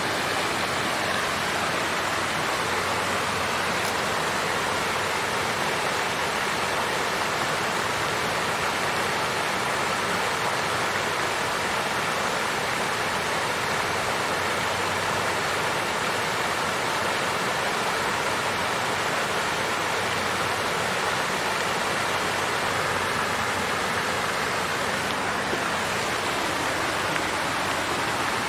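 Water fountain running: a steady, even splashing and rushing of falling water.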